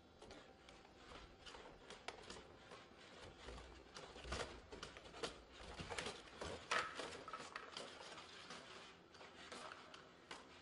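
Boston Dynamics SpotMini quadruped robot walking on a hard indoor floor: irregular light footfall taps and mechanical clicks, busiest in the middle, with one louder knock about seven seconds in.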